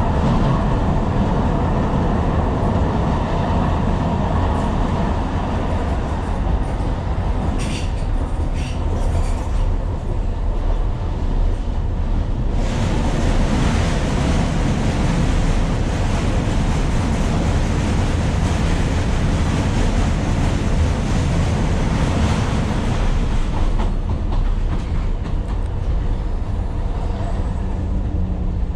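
Tyne and Wear Metro train running along the track: a steady rumble with a few clicks of the wheels over rail joints about eight seconds in. The wheel and rail noise turns harsher and hissier about halfway through, then settles again near the end.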